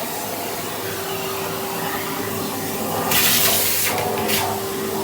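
Vacuum cleaner running steadily with a held humming tone, drawing air through its brush attachment. About three seconds in, a loud rush of air through the nozzle lasts just under a second, with a shorter rush soon after.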